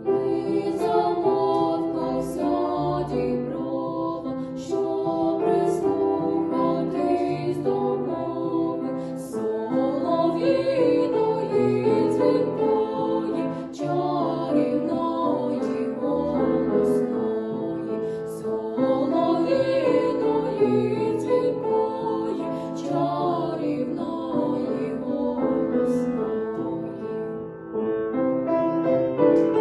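Two female voices singing a song over piano accompaniment.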